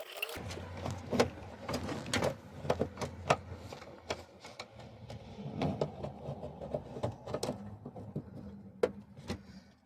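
Plastic dash trim of a Jeep Cherokee being worked loose and handled: a string of sharp clicks and knocks over a low steady hum.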